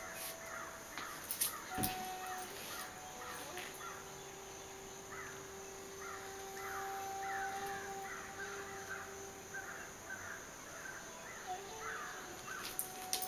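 A bird calling in a long run of short repeated calls, about two or three a second, with a soft thump about two seconds in.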